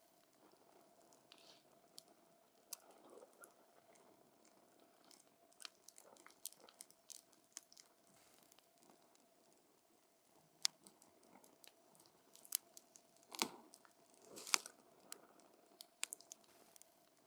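Burning wood in a campfire crackling: scattered sharp snaps and pops, with two louder pops, each with a short hiss, near the end, over a faint steady hum.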